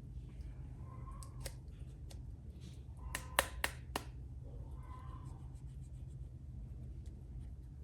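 Small plastic toy and packaging being handled: soft rustling, then a quick run of four sharp clicks about three seconds in, over a low steady hum.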